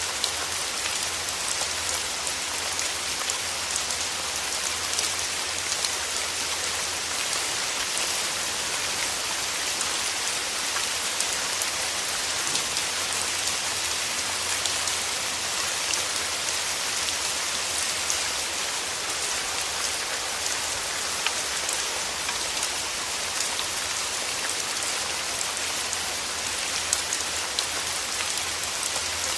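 Steady rain, a dense even hiss of many small drops pattering on a surface.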